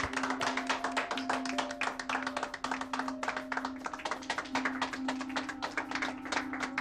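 A group of people clapping in applause, many quick claps, over background music with a low held note.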